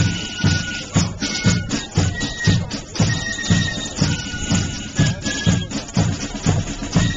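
Live band music with a steady beat of about two a second and held melody notes over it.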